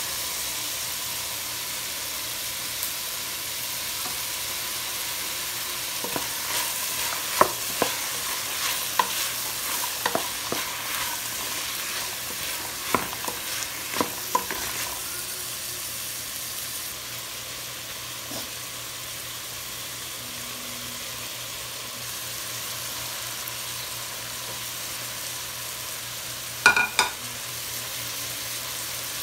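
Vegetables and chickpeas frying with a steady sizzle in a stainless steel pot, stirred with a wooden spatula that scrapes and clacks against the pot in a run of sharp clicks midway. A few loud knocks on the pot ring out near the end.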